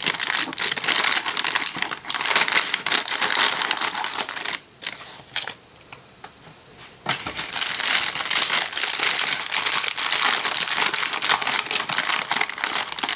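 Thin plastic polybag crinkling and crackling as hands pull at it to get it open, with a pause of about two seconds near the middle before the crinkling starts again. The bag is hard to open.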